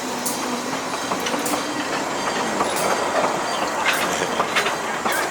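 Durango & Silverton narrow-gauge train rolling along, with a steady rumble of the wheels on the track and a sharp click from the rail joints a little more than once a second.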